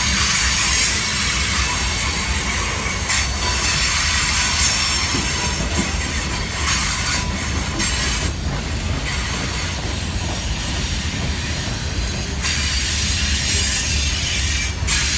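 Freight cars of a passing CSX manifest train rolling by at close range. Their steel wheels make a steady rumble and a high hiss on the rails.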